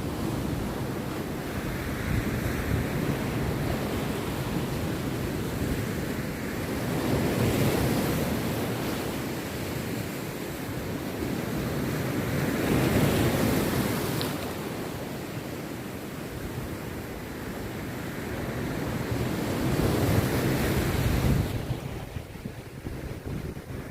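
Rough sea surf breaking on a beach, a continuous wash that swells as each wave breaks, about three times, with wind buffeting the microphone.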